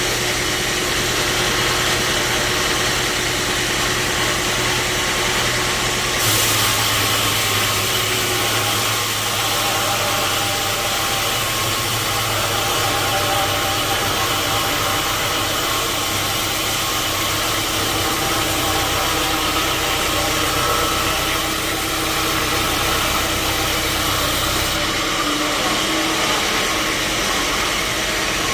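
Sawmill machinery running steadily, a motor hum under a dense sawing hiss that turns harsher and brighter about six seconds in and eases a few seconds before the end.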